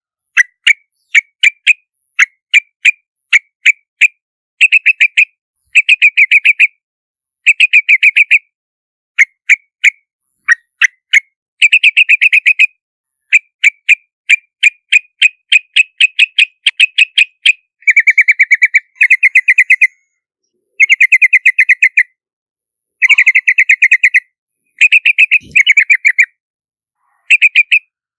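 Yellow-vented bulbul calls: runs of quick, sharp chirps repeated many times a second, broken by short pauses, with a few longer, denser chattering runs in the second half.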